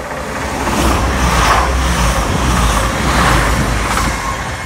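Class 222 Meridian diesel multiple unit passing close by at speed: a loud rush of engine and wheel noise that swells about a second in, surges several times as the coaches go past, and eases near the end.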